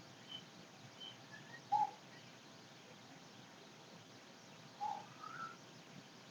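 Faint, brief high chirps of a bird, a few scattered notes and short glides, over a quiet background. Two soft taps with a short ring, about two seconds in and near five seconds in.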